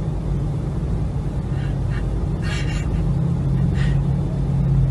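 Car engine idling, heard from inside the cabin as a steady low hum, with a few short hissing noises at about two, two and a half, and four seconds in.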